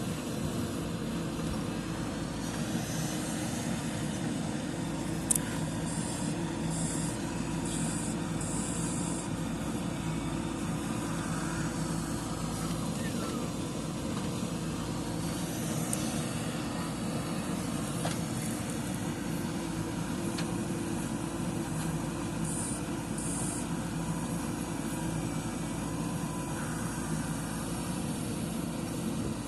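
Diesel engine of a backhoe loader running steadily while digging and loading, with a single sharp knock about five seconds in.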